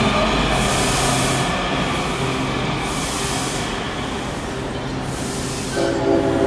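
Metro train running away from the platform, a steady low hum with rail noise, broken by three short hisses about two seconds apart. Near the end a freight locomotive's multi-note air horn starts sounding.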